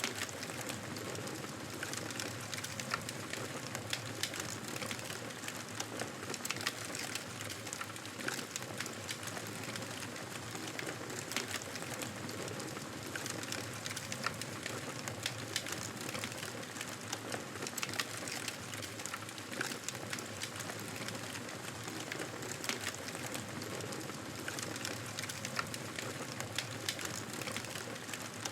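Wood campfire burning: frequent small, irregular pops and crackles over a steady hiss.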